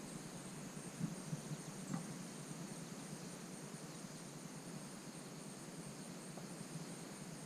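Faint, steady high-pitched insect chirring over low outdoor hiss, with a couple of small soft knocks in the first two seconds.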